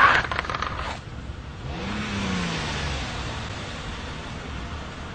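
A car engine revs once, rising and then falling in pitch, over steady street traffic noise. A few short knocks come in the first second.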